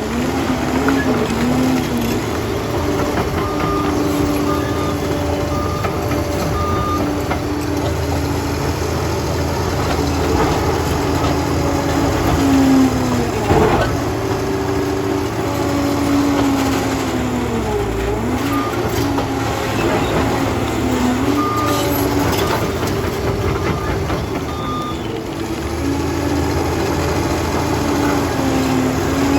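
Liebherr PR 746 crawler dozer's diesel engine working, its pitch sagging and recovering several times as the blade takes load. Twice a reversing alarm beeps in a steady series as the dozer backs up, first a few seconds in and again past the middle.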